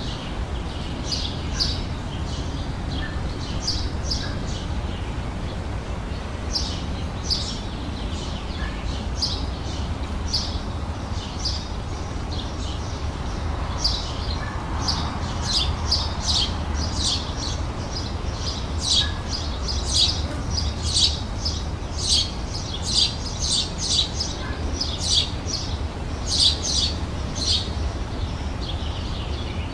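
Songbirds chirping in short, high calls, sparse at first and coming thicker and louder in the second half, over a steady low background rumble.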